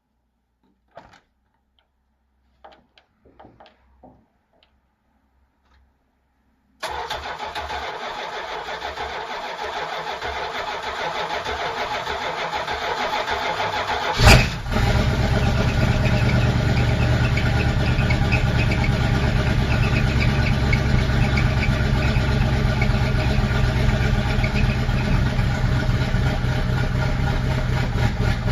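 A few faint clicks, then a V8 engine being cranked by its starter on a cold start for about seven seconds before it catches with a loud burst, then settles into a steady, deep, pulsing fast idle.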